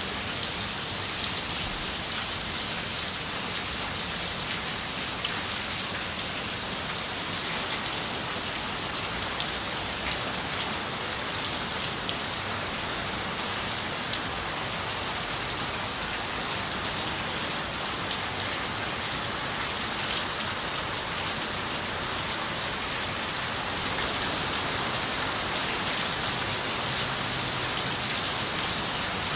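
Steady rain with scattered sharp drop ticks, growing slightly louder about 24 seconds in.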